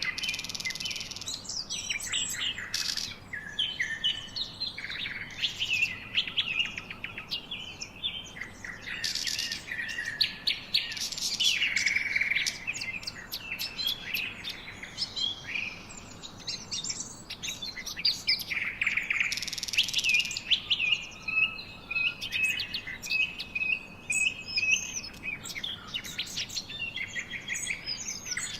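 Several songbirds chirping and singing together: a dense, continuous mix of short chirps, quick trills and whistled notes.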